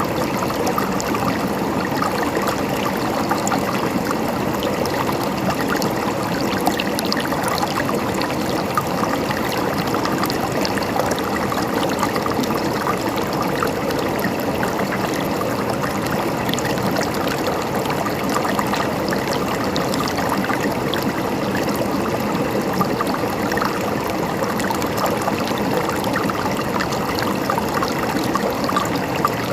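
Water gurgling and trickling steadily, like a shallow stream, with many small splashes and no change in level.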